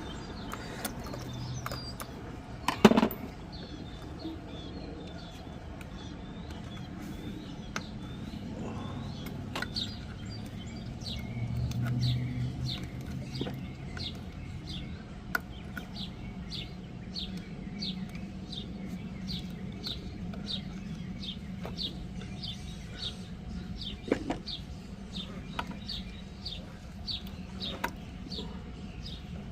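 A bird calling over and over, with short falling chirps at about one and a half a second from about ten seconds in. A single sharp knock comes near three seconds in, over a steady low background.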